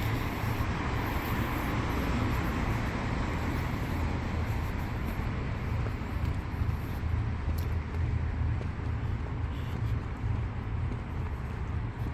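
Steady low engine rumble under a constant hiss of city ambience.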